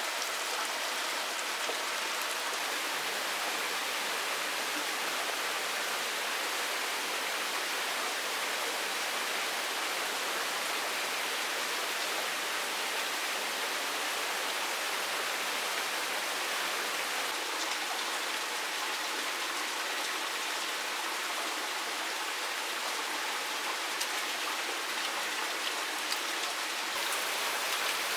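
Steady hiss of water, either rain falling or a stream running, with a few faint ticks.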